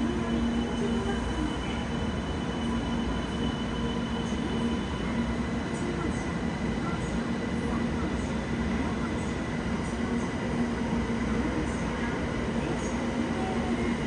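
A train running steadily: continuous running noise with a constant low hum, unchanging throughout.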